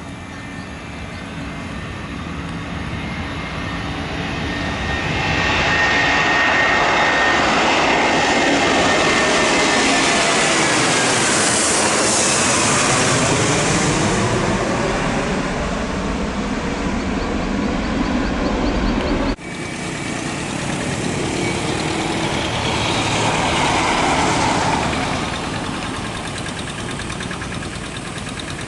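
Jet engines of a Garuda Indonesia airliner passing close, swelling to a loud whine and rush with its pitch falling as it goes by. The sound breaks off abruptly about two-thirds of the way in, then another swell of jet noise rises and fades.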